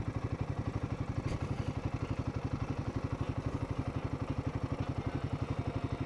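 Royal Enfield Himalayan 450's single-cylinder engine running at a steady low speed, an even beat of about twelve pulses a second.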